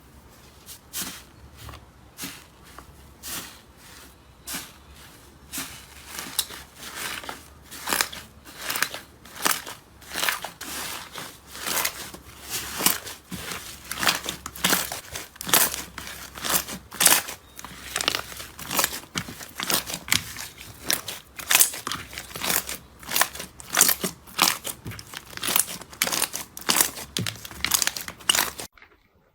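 Slime being worked by hand, giving a dense run of crisp clicks and crackles that grows louder after the first few seconds and stops suddenly near the end.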